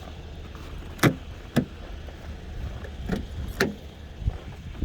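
Lexus GX 470's V8 engine idling as a steady low hum while the steering wheel is turned at a standstill, with four short sharp creaks that each drop quickly in pitch, and a low thump near the end.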